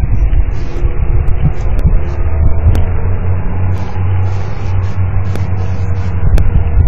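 Rolling thunder: a long, deep, steady rumble that swells in the middle and eases near the end, with a few faint sharp ticks.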